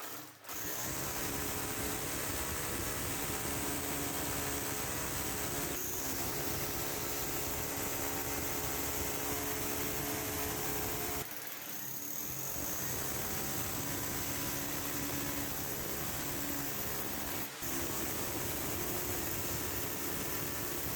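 A motor running steadily, broken by short cuts about 6, 11 and 17 seconds in.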